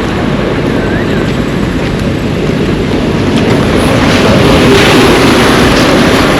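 Road traffic on a wet street in the rain, with a steady rush of noise. A vehicle swells louder about four seconds in.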